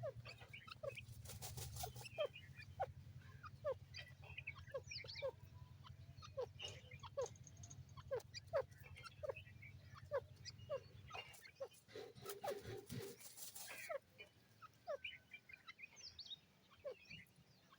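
Francolins (teetar) calling in a rapid run of short, sharp downward chirps, several a second and overlapping, under a low steady hum that stops about two-thirds of the way in. Two stretches of rustling noise break in, the second with a brief tone, not long after the start and near the end.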